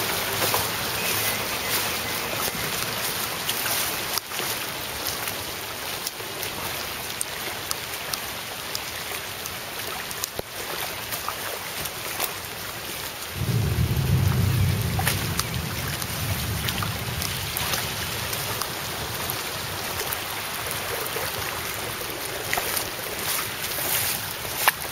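Heavy rain falling steadily, with many sharp ticks of drops landing close by. About halfway through, a deep rumble of thunder starts suddenly and slowly dies away.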